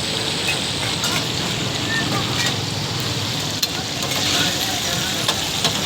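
Chicken frying in oil in a karahi, a steady sizzle with scattered sharp clicks, over background voices and street traffic.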